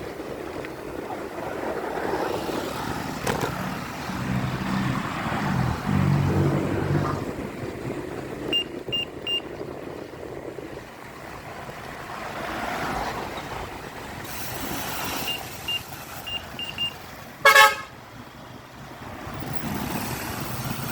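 Road traffic passing with a low engine hum, short high beeps in two small groups, and one brief loud vehicle horn toot about three-quarters of the way through.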